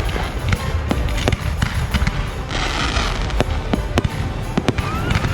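Fireworks display: sharp bangs and crackling bursts over a heavy low rumble, with a whistling firework tone rising and then holding near the end.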